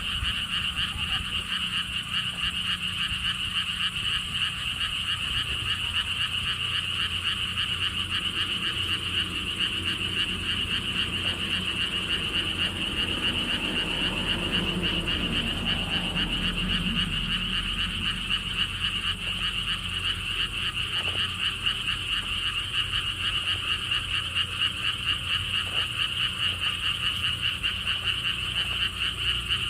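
A dense chorus of pond frogs calling without a break, many rapid pulsed trills overlapping into a steady high drone. A low rumble underneath swells briefly around the middle.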